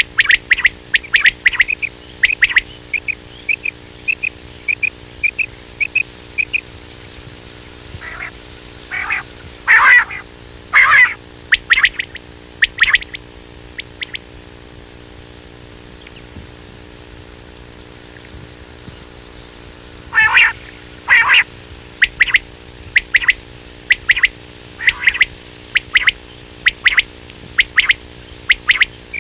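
Quail calling: runs of short, sharp notes repeated over and over, with louder clusters about ten seconds in and again about twenty seconds in, over a steady low hum.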